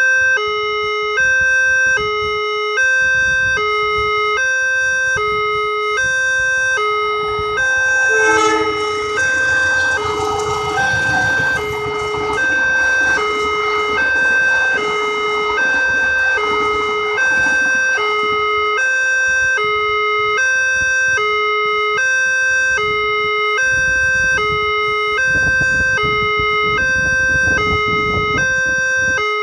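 Railway level-crossing warning siren from a horn loudspeaker, a two-tone hi-lo wail switching pitch at an even pace, sounding to warn that the barrier is down and a train is coming. A broad passing noise swells under it from about eight seconds in.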